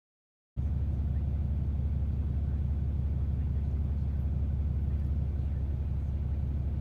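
Ram 2500's Cummins inline-six diesel engine idling with a steady low rumble, starting abruptly about half a second in.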